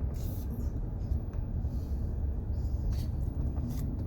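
Low, steady rumble of a car driving slowly over a rough, bumpy road, heard from inside the cabin, with a few short knocks and rattles.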